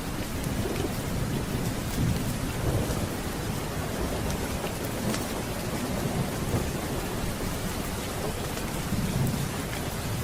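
Steady rain with low rolling thunder underneath, the rumble swelling a couple of seconds in and again near the end.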